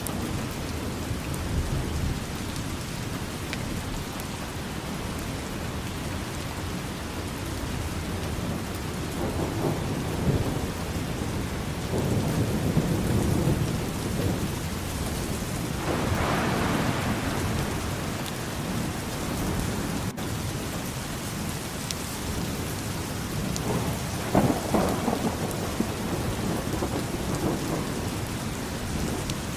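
Steady heavy rain with thunder rumbling in three long rolls, the last with a sharper crack near the end.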